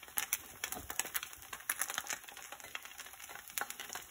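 Bánh xèo batter frying in oil in a pan, an irregular crackling sizzle of small pops.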